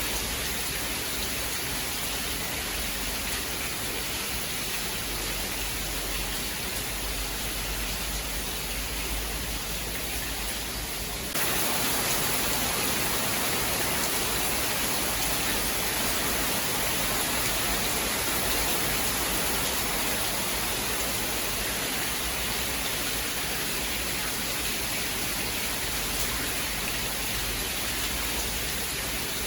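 Steady, dense rainfall hiss. About eleven seconds in it abruptly jumps a little louder and brighter, like a splice in a looped recording, then carries on evenly.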